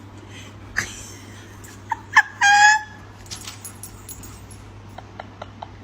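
A few short, high animal calls about two seconds in, ending in one held note, over a steady low hum.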